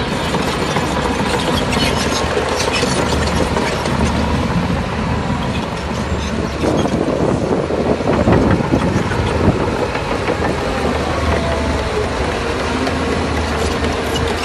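Crawler bulldozer at work: diesel engine running under load with the steel tracks clanking, the clatter louder and busier for a few seconds about halfway through.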